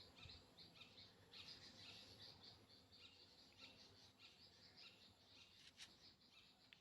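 Near silence with faint, rapid high-pitched chirping that keeps going throughout.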